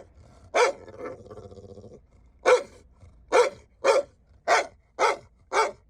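Dog barking, seven short barks: one, then after a low grumble a quick run of six about half a second apart near the end.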